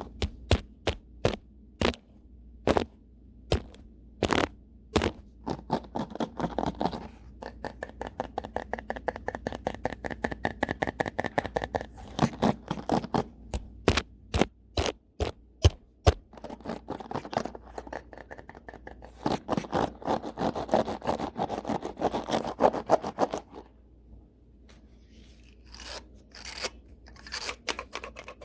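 A brush swept fast and hard across the microphone, its bristles making rapid scratchy strokes in runs. There is a short break about three-quarters of the way through, then a few more strokes.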